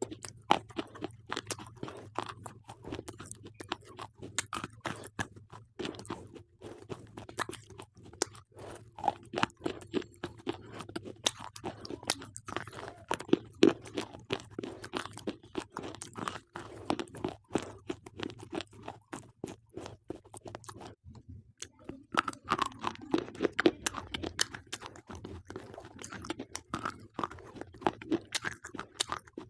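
Slate pencils being bitten and chewed close up: a dense run of sharp, gritty crunches, with a brief pause a little past two-thirds of the way through.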